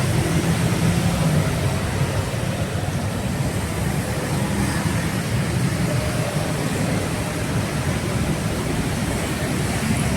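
Steady low rumble of street traffic, with vehicle engines running close by and no single passing vehicle standing out.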